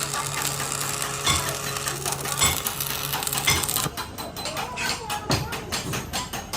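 Metal struck hard with a hammer three times, about a second apart, followed by a quicker run of lighter, evenly spaced taps, over a steady low hum.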